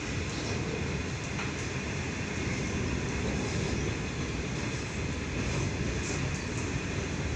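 A long steel freight train's wagons rolling past on the track in a steady rumble, with a few faint clicks from the wheels.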